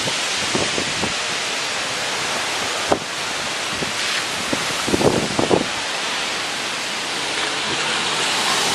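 Tropical-storm wind rushing in strong gusts, a loud steady roar of noise. Gusts buffet the microphone briefly about a second in, near three seconds, and twice around five seconds.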